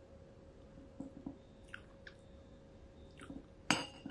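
A person chewing food up close, with soft mouth sounds and a few faint clicks, then a sharper, louder click near the end. A faint steady hum runs underneath.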